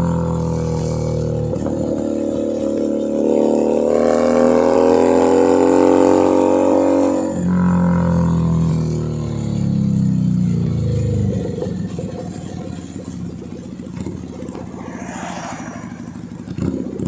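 Keeway SCR 250V motorcycle engine and exhaust while riding. Revs climb steadily for several seconds as it accelerates, then the pitch falls away as it slows and it settles to a quieter, low-rpm pulsing, with a short louder blip of throttle near the end.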